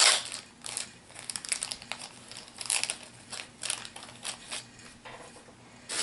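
Plastic and cardboard booster-pack packaging being handled, crinkling and rustling in irregular short sounds with a few sharper clicks, loudest right at the start.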